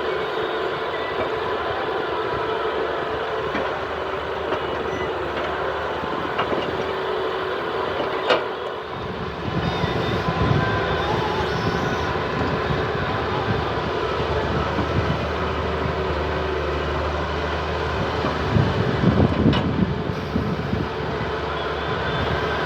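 Excavator and tractor diesel engines running steadily with a constant whine as the excavator loads soil into the tractor trolley. There is a sharp knock about eight seconds in and a run of louder knocks near the end.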